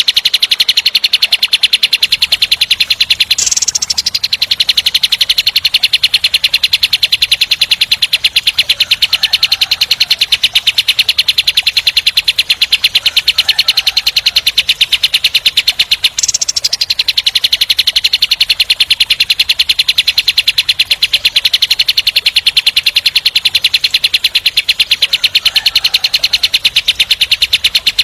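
Kapas tembak songbird singing its fast 'tembak' roll, a rapid, tightly packed rattle of repeated high notes that barely pauses. It breaks off briefly a few seconds in and again about halfway through.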